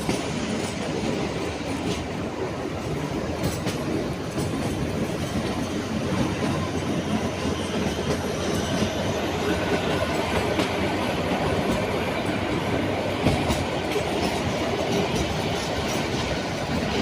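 Kalka–Shimla narrow-gauge toy train running along the track, a steady rumble and rattle of wheels on rails.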